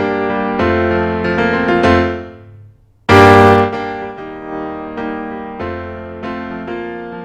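Piano part of a multitrack song playing chords. It swells, dies away for a moment about two and a half seconds in, then comes back with a sudden loud hit just after three seconds and carries on with steady chords.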